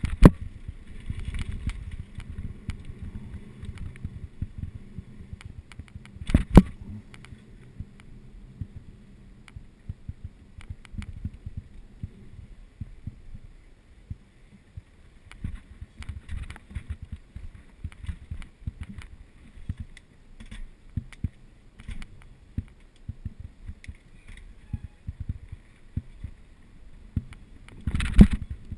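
Mountain bike rolling downhill over a rough trail: a constant low rumble with many rattling knocks. There is a hard jolt about six seconds in and another near the end.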